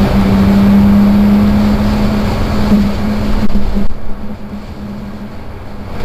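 Volkswagen R32's 3.2-litre VR6 engine pulling at steady revs over tyre and road noise, heard from inside the car. About four seconds in, the engine note drops away sharply and the car runs on much quieter.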